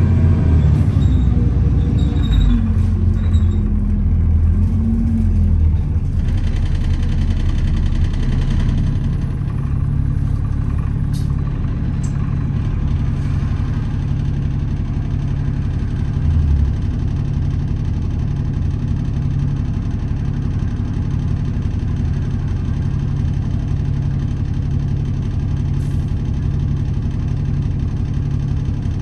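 Alexander Dennis Enviro400 double-decker bus heard from inside the cabin. Its engine and driveline drop in pitch over the first few seconds as the bus slows, and then the diesel engine idles steadily with a low drone.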